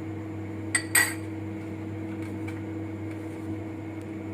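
Metal pizza pan clinking twice about a second in as it is handled and oiled, over the steady hum of a convection microwave oven running.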